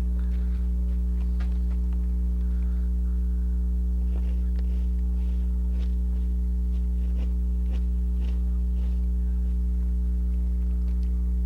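Steady electrical mains hum with a stack of even overtones, unchanging throughout, with a few faint clicks scattered over it.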